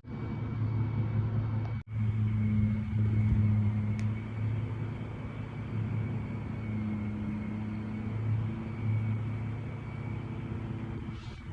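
Steady low mechanical drone of a running motor or engine, with a faint steady high whine over it. It cuts out for an instant a little under two seconds in.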